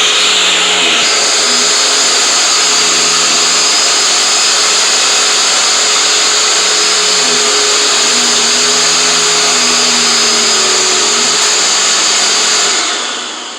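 Vacuum cleaner motor running with a steady high whine, then switched off near the end and winding down.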